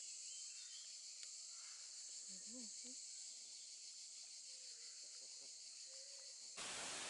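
Faint outdoor ambience: a steady high hiss with a few faint distant calls or voices. Near the end it jumps abruptly to a louder, even rushing noise.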